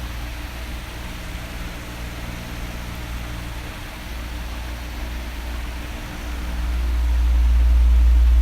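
Electric fan running: a steady rush of air with a low hum, which grows louder about six seconds in.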